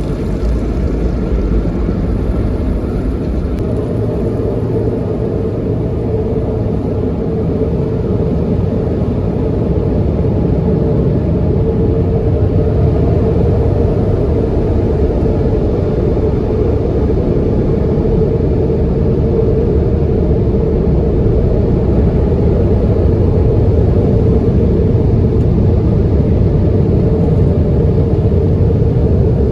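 Automatic tunnel car wash equipment heard from inside the car: a steady, loud rumbling noise, growing slightly louder over the second half.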